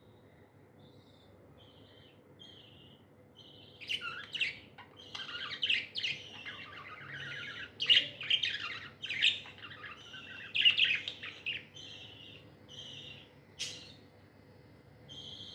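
Pet budgerigars chirping: a few soft, separate chirps, then busy overlapping chatter from about four seconds in until about twelve, then scattered single chirps again.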